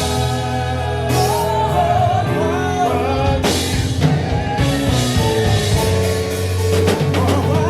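Live gospel quartet music: a singer holds and bends wordless notes over band accompaniment with bass and drums.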